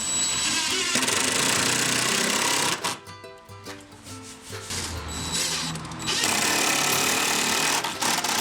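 A power tool running at full speed in two loud stretches, one at the start and one from about six seconds to near the end, with background music heard in the gap between them.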